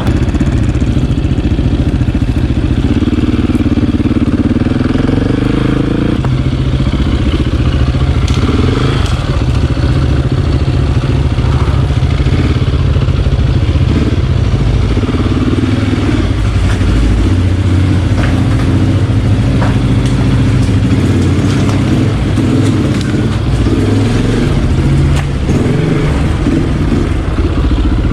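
Single-cylinder four-stroke dirt bike engines running under way, the pitch rising and falling with throttle and gear changes.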